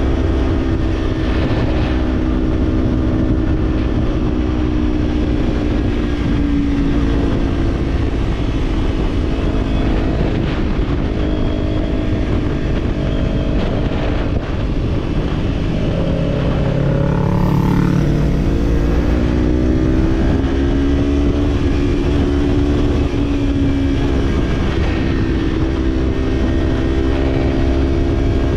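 Kawasaki Z-series parallel-twin motorcycle engine running at steady cruising revs, its pitch drifting gently up and down, under heavy wind rumble on the action camera. Just past the middle, another engine note briefly rises over it.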